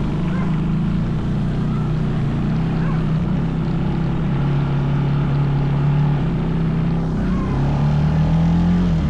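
Mini bike's small engine running under way at a steady speed, its pitch dipping slightly about four seconds in and rising again near the end.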